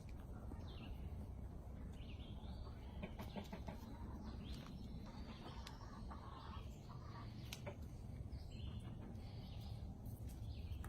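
Faint, short, high-pitched animal calls, scattered over a low steady rumble.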